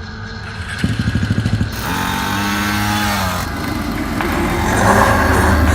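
Child's minibike engine running, with quick pulsing revs about a second in, then a steady engine note that grows louder and deeper near the end.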